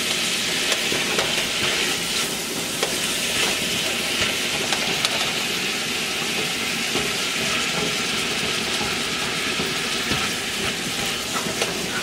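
Saltfish, sweet peppers and onion sizzling as they sauté in oil in a metal pot, with a steady frying hiss and the soft scrape and tap of a silicone spatula stirring them.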